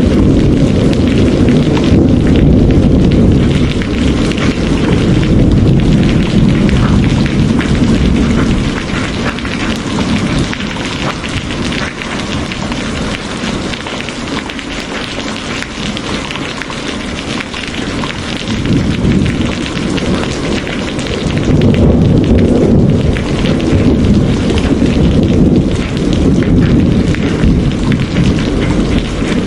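Heavy rain falling steadily with a deep rumble of rolling thunder underneath. The rumble eases off for a while in the middle and then swells again.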